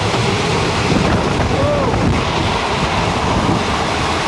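Train running at speed: a steady rumble and rush of air, with wind buffeting the microphone. A short wavering tone rises and falls near the middle.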